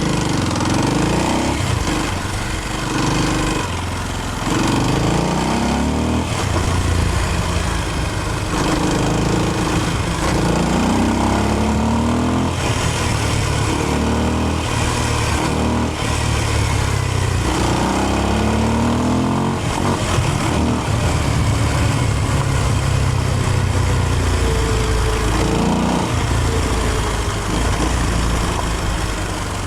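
Kawasaki KLX230's single-cylinder engine running under load. Its pitch rises again and again as the throttle is opened and falls back between.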